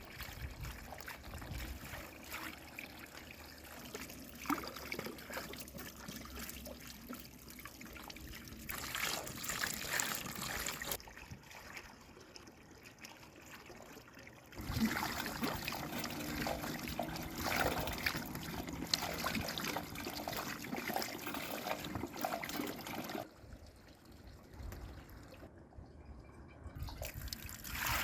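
Water trickling and splashing, in several stretches that get louder and softer abruptly.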